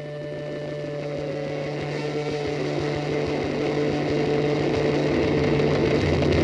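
Motorcycle engine running, growing steadily louder.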